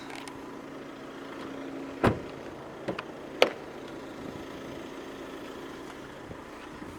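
A steady low hum in a parked car, broken by three sharp knocks about two, three and three and a half seconds in; the first is the loudest.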